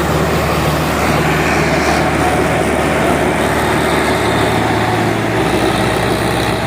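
Tractor engine running steadily and loud, its low tone shifting about five seconds in.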